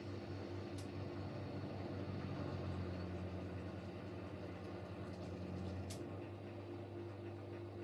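Siemens Siwamat Plus 574 front-loading washing machine in an intermediate spin between rinses: a steady motor hum and drum whirr. One of its tones drops out about six seconds in, with a short click at that moment and another about a second in.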